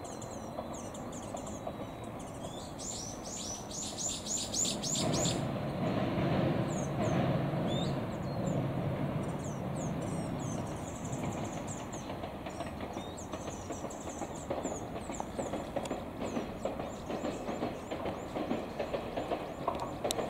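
Distant Tenryu Hamanako Railroad diesel railcar rumbling across a steel girder bridge, loudest about six to eight seconds in and then easing off. Small birds chirp throughout, and one bird gives a quick run of repeated notes about three to five seconds in.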